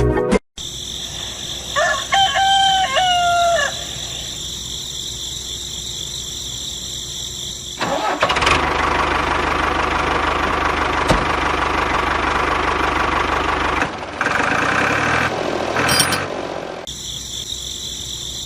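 A rooster crows once, then a few seconds later a steady engine-like mechanical noise starts and runs for about six seconds, followed by a shorter, lighter noise.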